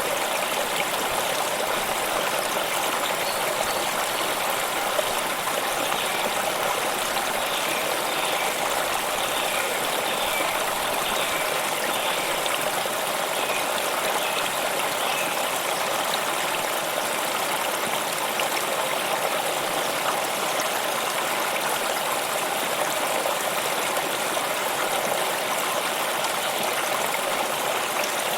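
Stream of water flowing steadily, an even rushing and trickling with no change in level. A few faint, short high chirps sit over it in the first half.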